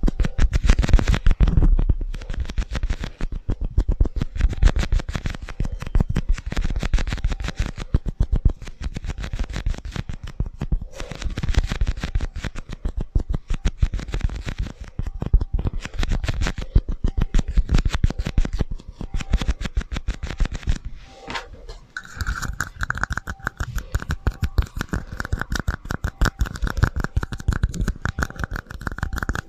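Rapid, continuous scratching and tapping on hard objects close to the microphone, ASMR trigger sounds. About three quarters of the way through, a steady high ringing tone sets in beneath the scratching.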